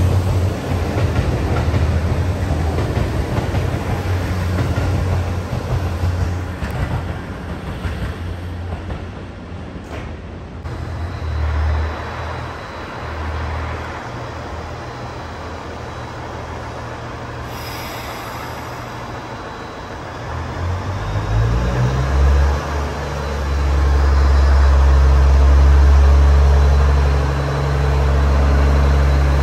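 HC85 series hybrid express train: first a rumble and low hum as the train accelerates away, then, after a break, a deep drone from the standing train's diesel-generator engine that rises in pitch about two-thirds of the way in and settles into a loud steady hum.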